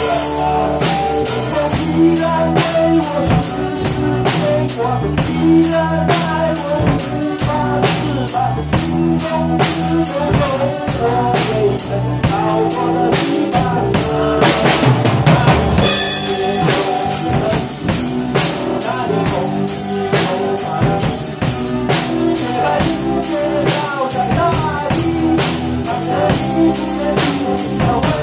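Drum kit playing a steady rock beat, bass drum, snare and cymbals, along with an instrumental backing track. About halfway through a fast drum fill builds up and lands on a cymbal crash.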